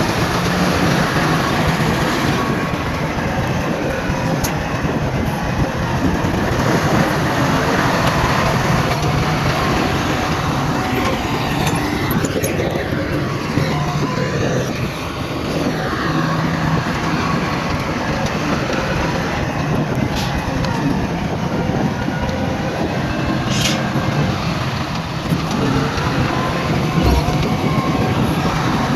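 Heavy diesel earthmoving machinery running continuously: a steady low engine drone under a constant rattling, rumbling noise.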